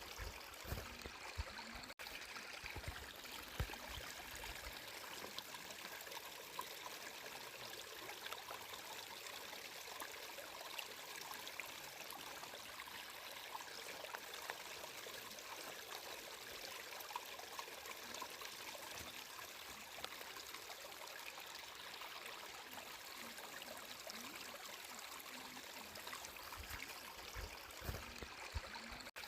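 Water flowing and trickling steadily in a small stream, with many small splashes and a few low thuds near the start and end.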